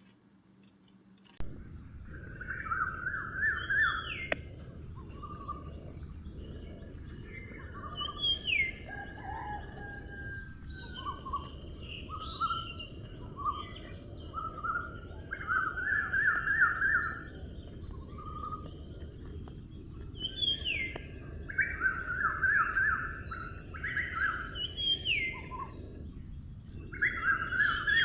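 A songbird singing repeated phrases, each a fast buzzy trill followed by sharp slurred notes, starting about a second and a half in. Under it runs a steady high hiss and a low outdoor background rumble.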